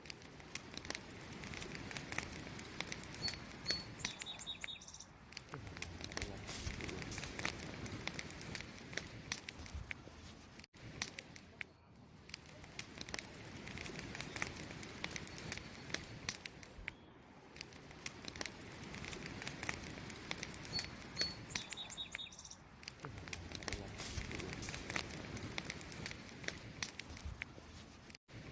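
Campfire crackling and popping in a dense run of sharp snaps, over the steady chirping of crickets. A short run of high chirps stands out twice, a few seconds in and again past the middle.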